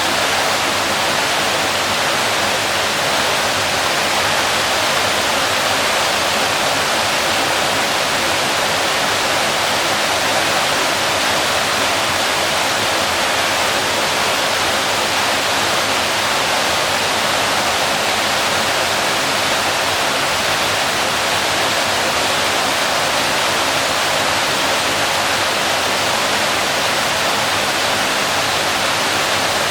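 Waterfall pouring into a pool: a steady, loud, unbroken rush of falling water.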